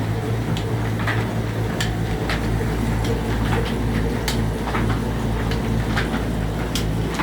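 22 hp slow-speed diesel engine running steadily at about 300 rpm: a constant low drone with sharp ticks about twice a second.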